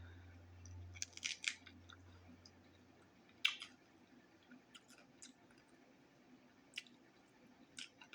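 Close-miked mouth sounds of someone eating a taco: scattered wet smacks and chewing clicks, with a faint low hum that fades out about three seconds in.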